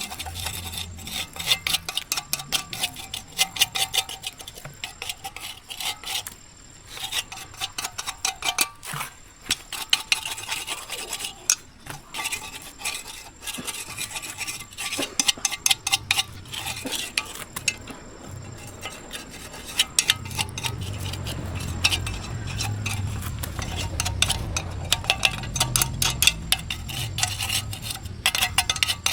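Rapid scraping and rubbing strokes of hand tool work, with light clinks, and a low hum joining about two-thirds of the way through.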